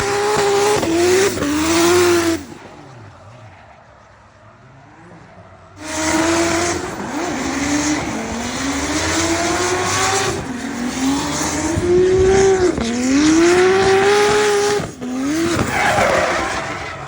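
Nissan S13's RB30 straight-six revving hard while drifting, its pitch climbing and falling again and again with tyre squeal. The sound drops away about two seconds in and comes back loud about six seconds in.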